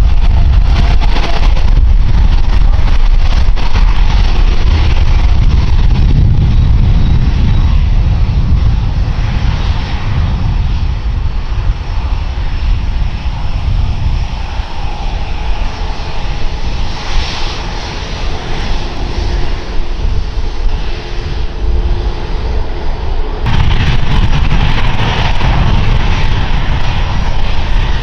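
Jet airliner engines rumbling loudly, with a deep low roar that eases off through the middle. About 23 seconds in it turns abruptly loud again.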